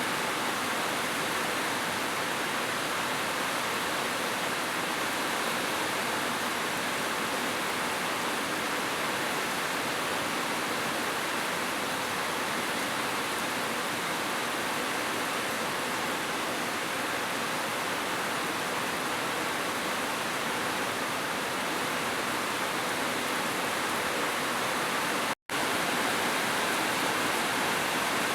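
Steady rushing water, an even wash of noise with no rhythm, broken by one very short complete silence near the end, like a splice in a looped track.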